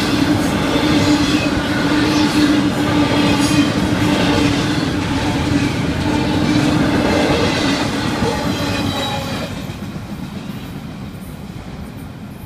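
Cars of a Florida East Coast intermodal freight train rolling past a grade crossing: steady wheel-on-rail running noise with a steady hum, dying down about ten seconds in.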